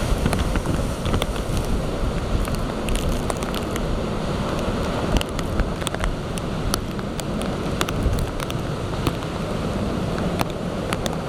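Typhoon wind buffeting the microphone in heavy rain, a steady loud rush with many sharp ticks of drops striking the microphone.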